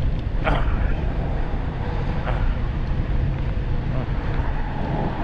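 Wind buffeting the microphone of a rider on a 1500-watt electric bike moving at speed, a steady low rumble, with a faint steady whine underneath.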